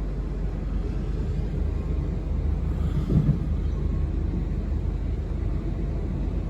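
Cabin running noise of a South Western Railway Class 444 electric multiple unit: a steady low rumble of the train rolling on the track, with one brief louder sound about three seconds in.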